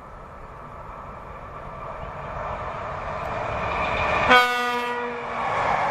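PKP Class EP08 electric locomotive approaching with a passenger train, its rolling noise growing steadily louder. About four seconds in it gives a horn blast of about a second, loudest at its start, and the train's running noise then rises as it draws level.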